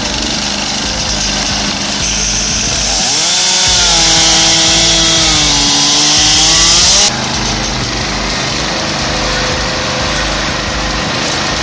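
Chainsaw unit of a firewood processor cutting through logs, a loud steady saw noise. A pitched whine rises about three seconds in, sags, and cuts off suddenly near seven seconds.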